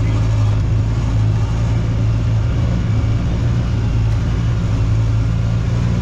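Side-by-side utility vehicle's engine running steadily while riding: an even, low engine drone.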